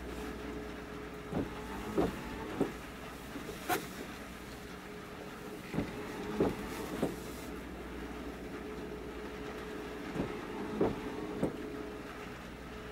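Rainy harbour ambience: a steady engine-like hum with one constant tone, and about a dozen sharp, irregular taps of large raindrops landing close to the microphone.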